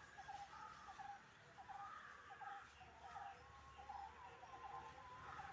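Faint birds chirping: short, quick calls repeated several times a second.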